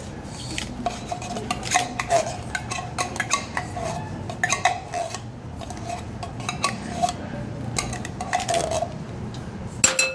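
A metal spoon scraping and tapping thick condensed soup out of a tin can, with quick, irregular metallic scrapes and clinks and a faint ring from the can. A sharper ringing clink comes near the end.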